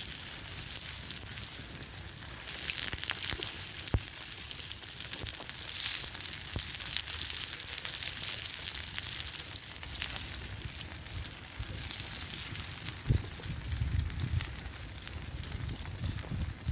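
Onion and seasoned potatoes frying in hot oil over a campfire: a steady sizzle with scattered crackles and spits, one sharper crack about four seconds in.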